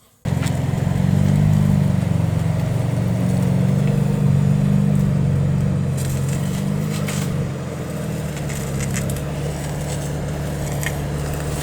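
BMW M3 (G80) being driven: its twin-turbo straight-six running with road noise as a steady low drone that eases slightly after about eight seconds.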